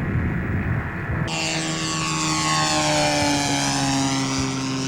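Propeller engine of a radio-controlled scale model warplane passing in a flyby. After a low rumble in the first second or so, the sound changes abruptly to a clear engine note whose pitch slowly falls as the plane goes by.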